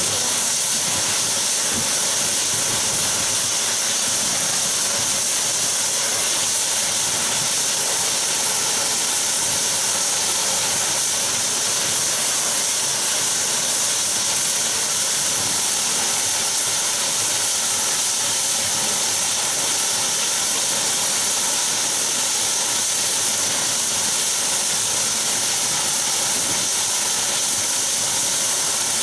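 Saab 340B's General Electric CT7 turboprop engines running steadily, a high turbine whine over an even rush of noise.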